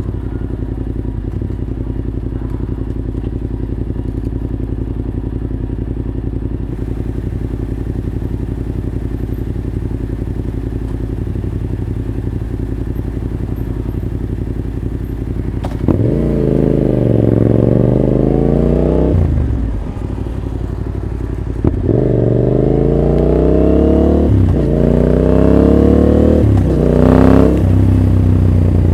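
Yamaha Ténéré 700 parallel-twin with an Arrow full exhaust ticking over steadily. About halfway through it accelerates hard in several rising pulls, each cut off by an upshift, with a brief lull between the first and second pull.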